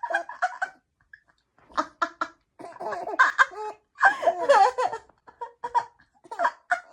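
A young baby, about 100 days old, and its mother laughing in repeated high-pitched bursts, with a short pause about a second in.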